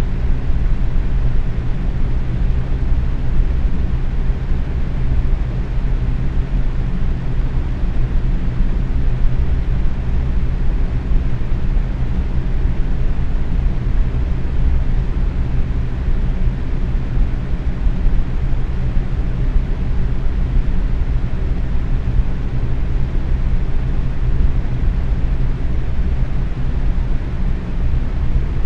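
Box fan running steadily at medium speed: an even, low whooshing rush of moving air with a faint low hum from the motor.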